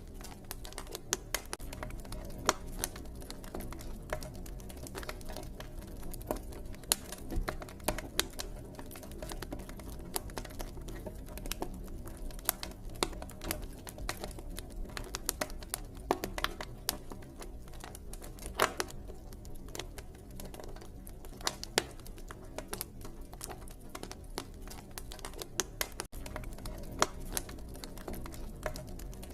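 Campfire crackling: irregular sharp snaps, several a second, over a low steady rumble of the burning fire.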